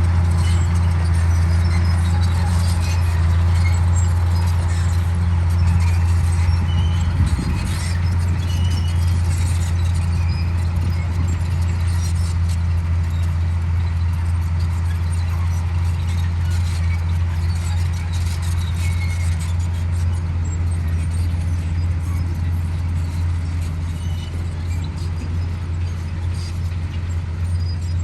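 Komatsu D58E crawler bulldozer's diesel engine running steadily with a deep drone, with faint short squeaks above it.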